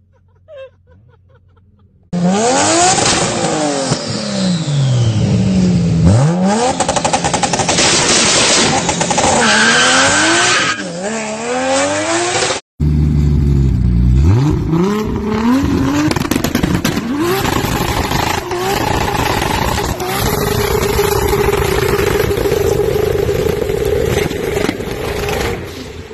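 Toyota Supra straight-six engines revving hard. After two quieter seconds, one engine is blipped up and down in repeated sweeps. After a sudden cut about halfway, a red MK4 Supra revs and is then held at steady high revs through a burnout, its rear tyre spinning in smoke.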